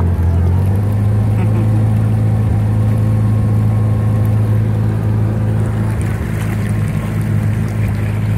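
Amphicar amphibious car's engine running steadily while the car drives on the water, a low hum that steps up slightly in pitch about half a second in.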